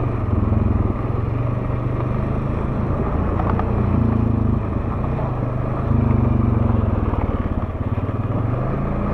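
Honda ATV engine running as the quad climbs a mountain track, its note rising and falling with the throttle.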